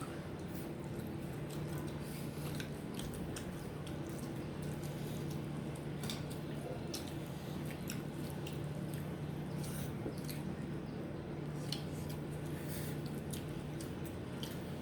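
People chewing and eating close to the microphone: scattered short, wet clicks and mouth sounds over a steady low hum.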